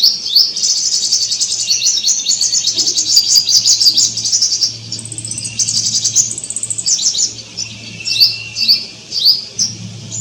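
Songbirds chirping and twittering in fast, dense trills, thinning near the end to separate short, downward-sliding notes, over a faint steady low hum.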